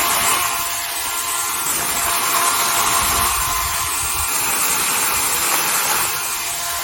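DeWalt FlexVolt 60V Max 18-inch cordless chainsaw running with a steady high whine, its chain cutting into a fallen tree.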